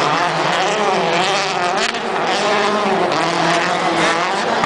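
Rally car engine revving hard as it is driven round a tight arena course, its pitch rising and falling repeatedly without a pause.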